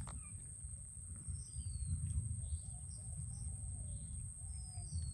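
Birds chirping faintly, with two short falling whistled calls, over a steady low rumble and a thin constant high tone.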